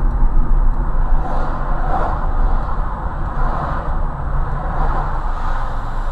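A car driving on the road: a steady low rumble of engine and road noise with a hiss that swells and fades.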